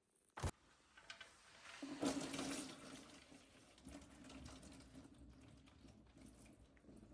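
A sharp click, then liquid running out in a stream, loudest a couple of seconds in and then easing off.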